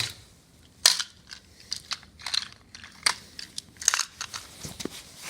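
Snow crunching in a run of irregular crunches, the loudest about a second in.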